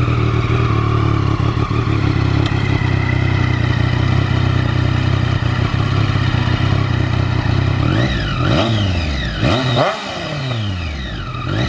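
Triumph Street Triple 765S's inline three-cylinder engine idling steadily through its exhaust, then revved sharply from about eight seconds in, several quick throttle blips with the revs rising and dropping straight back.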